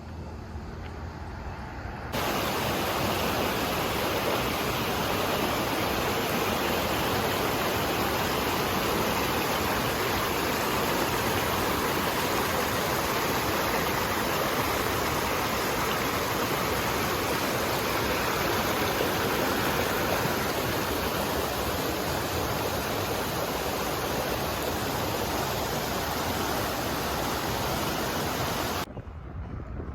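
Waterfall: a steady rush of falling water, starting suddenly about two seconds in and cutting off just before the end.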